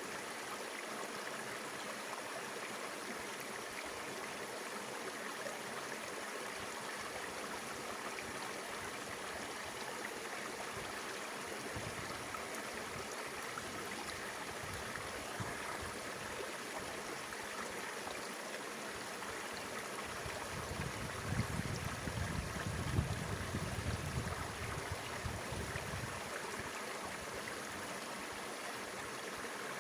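Mountain river flowing over rocks, a steady rush of water. About two-thirds of the way through, a few seconds of low rumble with a few knocks rise over it and fade.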